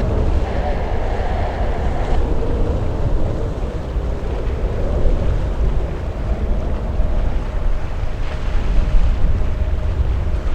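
Wind buffeting the microphone: a loud, gusty low rumble with a rushing hiss above it.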